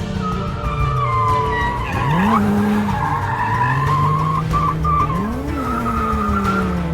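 A car drifting: tyres squealing in a long wavering note while the engine revs up sharply twice, about two and five and a half seconds in.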